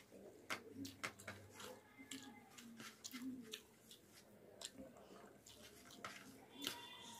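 Close-miked chewing and mouth sounds of a person eating rice and masaura curry: soft, irregular wet clicks and smacks, two or three a second, with a brief ringing tone near the end.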